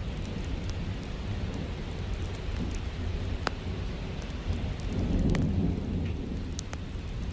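Rain falling steadily, with a low rumble of thunder that swells about five seconds in. Scattered sharp crackles of a wood fire are heard over it.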